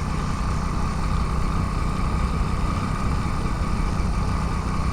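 Motorcycle engine running steadily on the move, heard through a helmet-mounted GoPro: a steady low hum with an even hiss over it.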